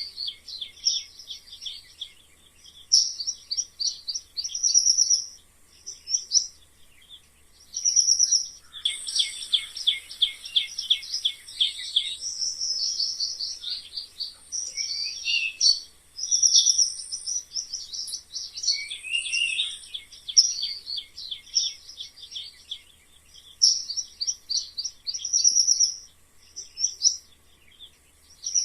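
High-pitched squeaking and chirping in rapid runs of short notes, coming in bursts of one to three seconds with short gaps between them.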